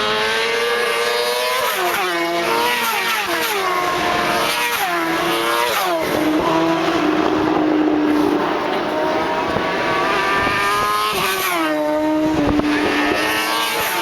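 Superbike racing motorcycles going past at race speed, several in succession with their engines overlapping. The engine pitch repeatedly rises and drops sharply as the riders change gear.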